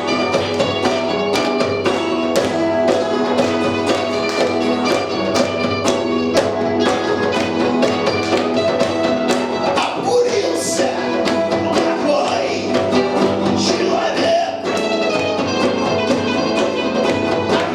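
Punk rock band playing live: sustained instruments over a fast, steady drum beat, with cymbal crashes about ten seconds in and again near the end.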